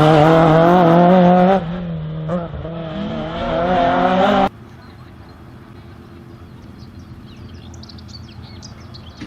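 Race car engine running hard on a slalom course, its pitch rising and falling as it is driven. The engine sound cuts off suddenly about four and a half seconds in, leaving a quieter outdoor background with birds chirping near the end.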